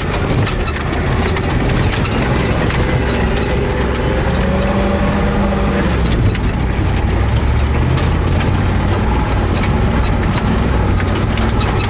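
Ford truck's engine running as the truck drives over rough, bumpy ground, with many short knocks and rattles. The engine revs up about four seconds in and drops back about two seconds later.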